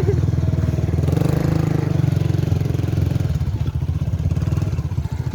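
Habal-habal motorcycle engine running steadily, heard from on the bike while riding.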